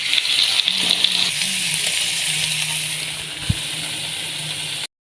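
Food sizzling as it fries in a pan: a steady hiss, with one short thump about three and a half seconds in, cut off abruptly near the end.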